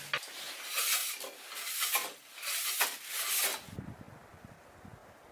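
Three rasping scrapes about a second apart, each lasting around half a second, followed by a faint low rumble.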